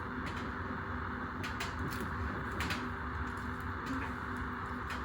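Washing machine running, its motor humming steadily, with objects inside the drum giving irregular sharp clicks and knocks.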